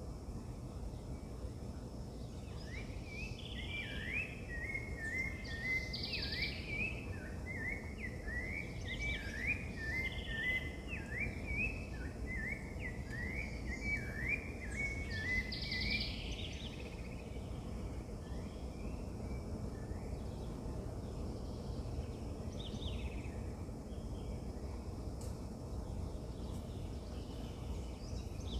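A songbird singing a long, fast run of short chirping notes for about thirteen seconds, starting a few seconds in. A few brief, higher calls come through now and then over steady low background noise.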